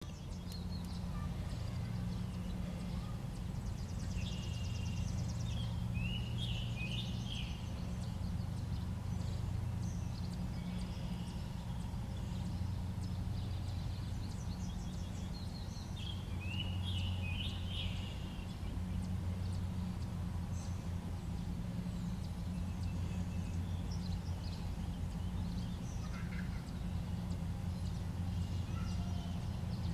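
Birds singing and calling outdoors, heard from inside a car over a steady low rumble; a short song phrase comes back about every ten to twelve seconds among scattered chirps.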